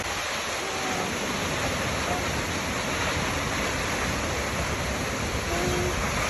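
Waterfall rushing: a steady, even roar of falling water. A few faint, brief low tones sound now and then over it.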